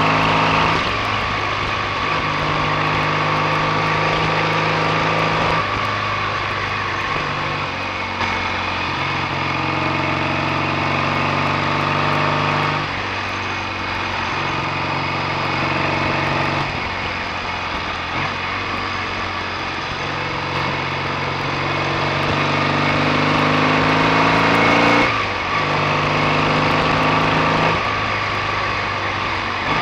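BSA A65's 650 cc parallel-twin engine running under way on the road, its revs climbing slowly and then dropping sharply, about six or seven times.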